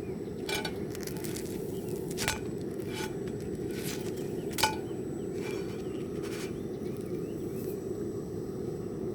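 Wood campfire crackling, with scattered sharp pops and snaps, the loudest a bit over four and a half seconds in, over a steady low rush.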